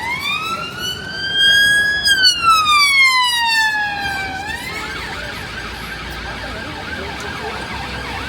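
Emergency-vehicle siren in a slow wail, rising in pitch for about two seconds and then falling, loudest in the middle. About four and a half seconds in it switches to a fast yelp that carries on.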